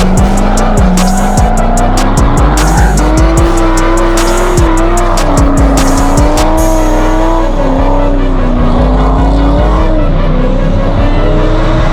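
Drift car engine revving up and down repeatedly, with tyre squeal, under music.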